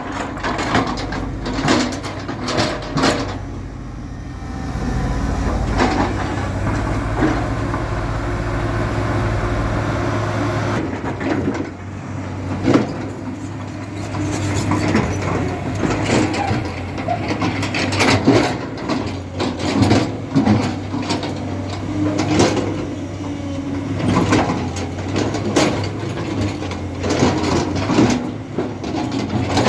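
JCB 3DX backhoe loader's diesel engine running under working load, with repeated sharp clanks and knocks. The engine pulls harder for several seconds early on, then drops back.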